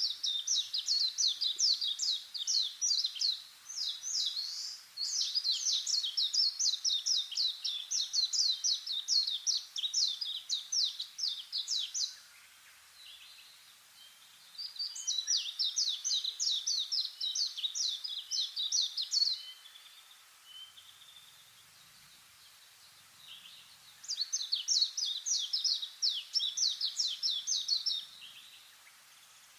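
A small bird calling in long bouts of rapid, high-pitched chirps, many notes a second. The bouts last several seconds each and are broken by pauses of a few seconds.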